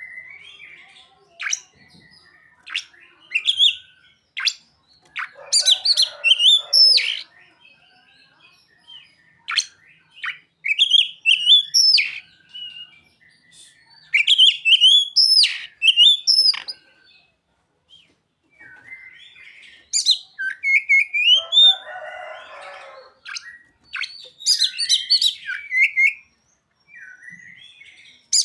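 Oriental magpie-robin (kacer) singing in bursts of rapid, sliding whistled notes with short pauses between phrases, and a harsh scratchy chatter about 5 s in and again about 22 s in. Its song is one trained to include mimicked ciblek (bar-winged prinia) and sogon calls.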